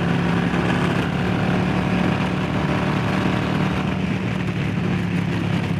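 Harley-Davidson Low Rider S's Milwaukee-Eight V-twin engine running steadily at speed, a steady low exhaust note under a rush of noise that eases a little about four seconds in.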